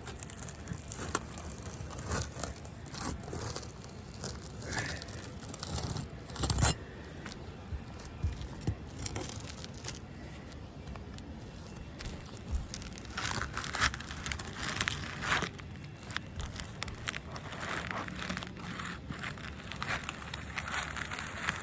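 Aged asphalt roof shingles scraping and crackling as they are pried up from underneath, with irregular scrapes and clicks and a sharper knock about a third of the way in. The shingles are brittle from sun exposure.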